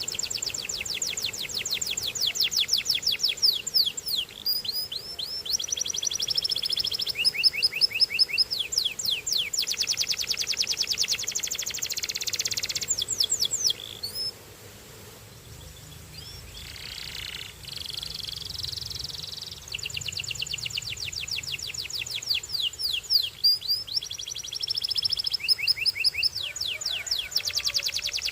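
Canary singing a long, fast song of high trills and rolls that switches from one repeated-note phrase to the next every second or two. The song breaks off about halfway through for several seconds, then starts again.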